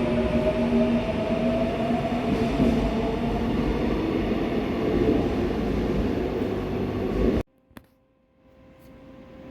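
Seoul Subway Line 4 electric train running with its inverter-driven traction motors whining, several tones slowly rising in pitch as it gathers speed, over a heavy rumble of wheels on rail. The sound cuts off suddenly about seven seconds in, leaving a faint steady hum.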